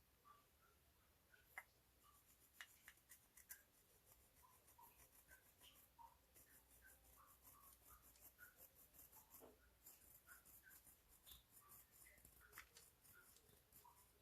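Faint sticky clicks and tiny pops of clear slime being mixed, coming in quick, irregular succession.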